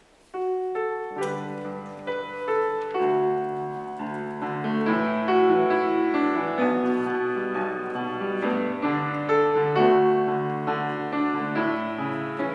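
Piano music: a slow piece of held notes and chords that starts abruptly about half a second in.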